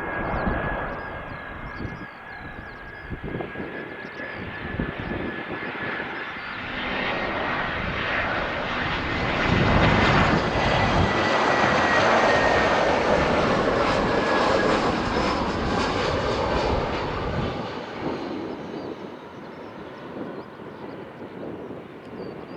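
Jet airliner passing by. Its engines' whine and rushing roar swell to a peak past the midpoint, then fade away.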